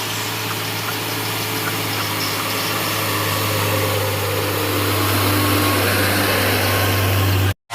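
Loaded logging truck's engine running with a steady low drone and road noise, growing slowly louder. The sound drops out abruptly near the end.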